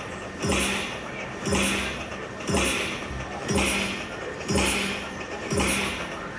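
Dragon Train poker machine's game sounds: a thud with a falling low tone, a hum and a hissing shimmer, repeating evenly about once a second.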